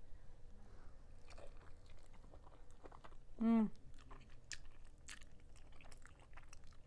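Mouth sounds of biting into and chewing a sticky honey-Dijon glazed chicken drumstick close to the microphone, a string of small wet clicks and smacks. A brief falling vocal "mm" comes about three and a half seconds in.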